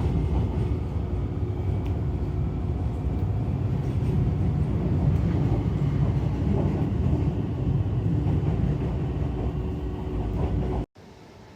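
A train running: a steady low rumble with some faint steady tones that cuts off abruptly near the end, leaving a quiet hiss.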